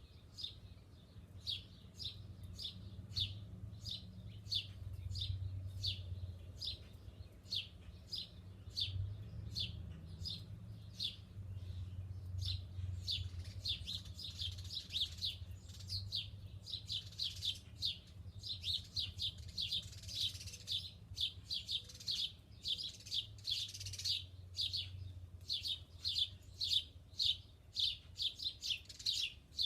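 Small songbirds chirping over and over: short, high chirps, two or three a second, bunching closer together in the middle and near the end. A low steady rumble runs underneath.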